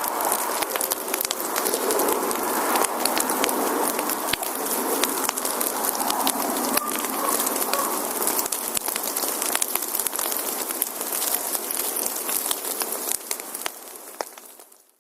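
Firewood burning in a campfire: a steady hiss with dense crackles and small pops throughout, fading out near the end.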